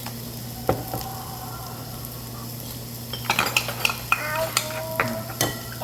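Meat sizzling on a tabletop grill, with the clink of utensils and dishes: one click about a second in, then a busy run of clinks in the second half.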